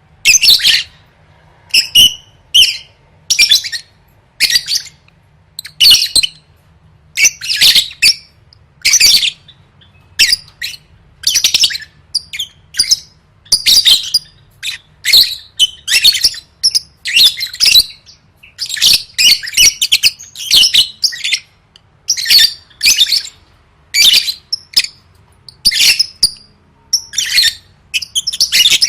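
Lovebird chattering in full song: a continuous run of short, shrill bursts of chirps and squawks, about one burst a second, with brief gaps between them.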